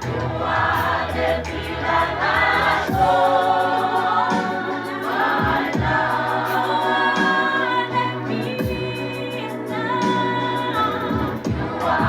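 Youth choir singing a gospel song in several-part harmony, with held notes moving from chord to chord.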